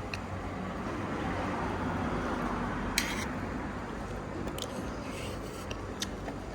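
Busy street-food stall ambience: a steady hum and background noise with a few short, sharp clinks, the loudest about three seconds in.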